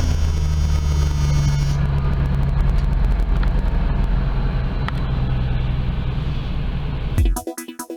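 Car engine running steadily at idle just after a cold start, having sat unstarted in sub-freezing weather since the day before. It cuts off abruptly near the end, where electronic music takes over.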